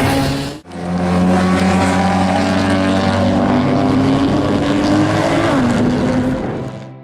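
Nissan GT-R engine with a Milltek Sport exhaust. It runs loud, cuts out briefly about half a second in, then holds a steady note that climbs slowly in pitch. The pitch drops about five and a half seconds in, and the sound fades near the end.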